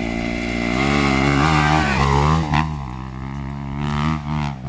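Dirt bike engine revving, its pitch rising and falling with the throttle, loudest in the first half and settling to a steadier run before easing off near the end.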